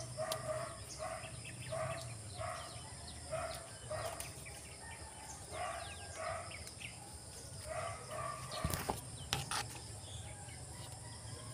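A bird calling over and over in short, evenly spaced notes, about one to two a second, that stop about eight seconds in. A couple of sharp clicks follow.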